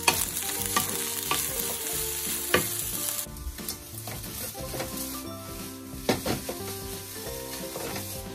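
Fried rice with lettuce and sausage sizzling in a frying pan as a wooden spatula stirs and turns it, with sharp knocks and scrapes of the spatula against the pan. The sizzle is loudest for the first three seconds or so, then eases.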